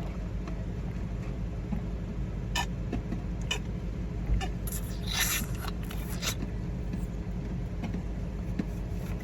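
Steady low rumble inside a car, with a few sharp clicks and a short rustle about midway.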